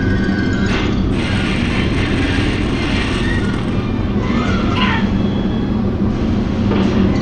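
Steady low rumble of snowstorm wind, with a cartoon soundtrack playing over it: short tones, a few clicks, and a sliding whistle-like sweep about five seconds in.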